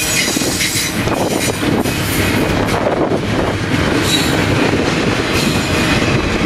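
Double-stack intermodal well cars rolling past close by: a loud, steady rumble of steel wheels on rail with scattered clicks over the rail joints and a faint high wheel squeal.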